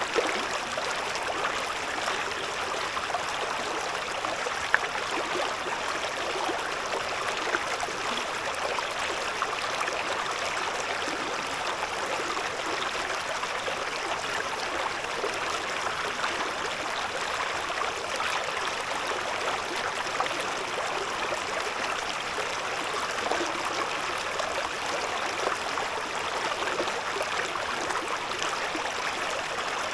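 Shallow river babbling and trickling over stones, a steady, even flow of water.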